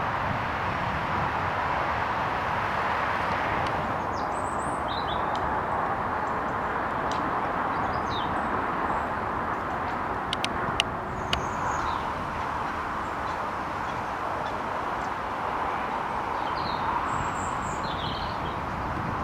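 A steady wash of outdoor background noise with faint, short bird chirps twice, about four seconds in and again near the end. A few sharp clicks come around the middle.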